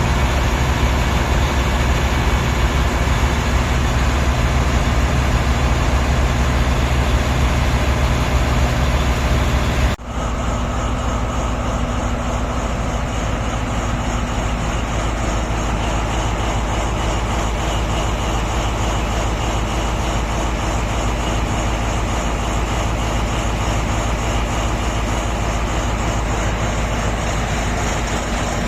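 Large mining dump truck diesel engines running steadily with a deep, even drone. The sound changes abruptly about ten seconds in, then carries on at a similar level.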